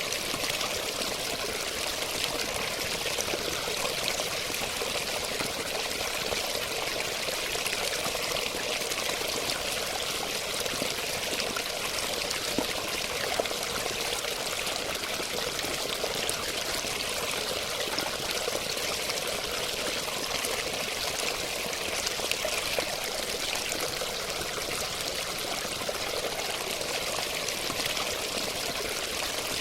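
Running water flowing and splashing steadily, a continuous even rush with fine trickling detail and no change in level.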